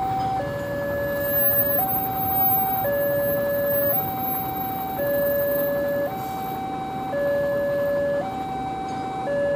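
Railway level-crossing alarm sounding its two-tone warning: a higher and a lower tone alternate, each held about a second.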